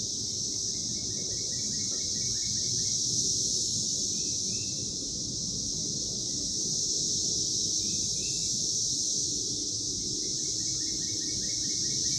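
Brood XIV periodical cicadas chorusing in a steady, dense high-pitched drone. A bird calls twice over it with a quick run of short notes, once about a second in and again near the end, and gives a couple of single chirps in between.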